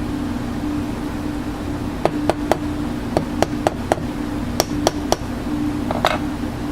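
About a dozen sharp, irregular taps, like light hammer blows, between two and five seconds in, over a steady mechanical hum. A short rasp follows near the end.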